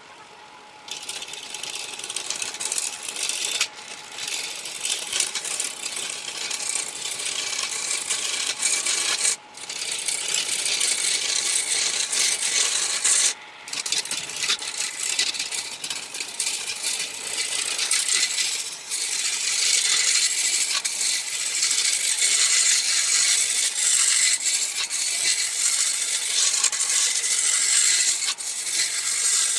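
Woodturning tool cutting a spinning wood blank on a lathe: a steady, hissing scrape of the cutting edge on the wood, with a faint hum beneath it, that starts about a second in and breaks off briefly twice.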